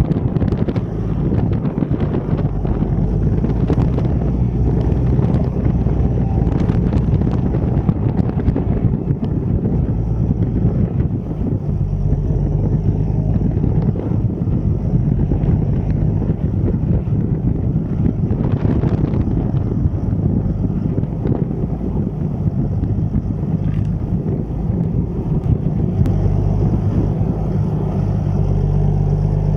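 Deutz-Fahr 6160 TTV tractor engine running with a steady, loud drone. The engine note changes a little about twelve seconds in and again near the end, with some wind noise on the microphone.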